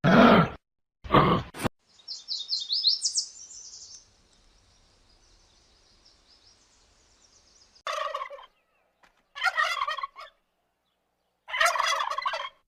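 Turkey gobbling three times in the second half, each a short rattling call. Before that come two loud animal calls at the very start and a quick run of high chirps.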